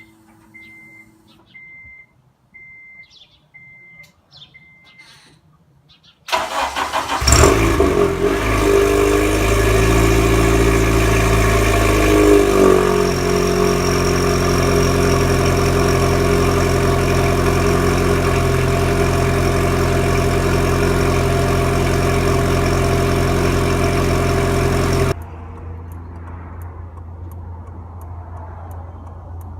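A chime beeps about six times, then a 2008 Honda Civic Si's four-cylinder engine cranks and starts about six seconds in. It flares up and settles into a steady idle through a header, test pipe (no catalytic converter) and 2.5-inch cat-back with the stock muffler. Near the end the sound drops suddenly to a quieter, steady low hum.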